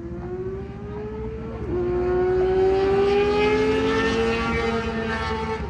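A motor runs with a steady tone that slowly rises in pitch. It dips once about a second and a half in, gets louder, and stops with a click at the very end, over a low steady hum.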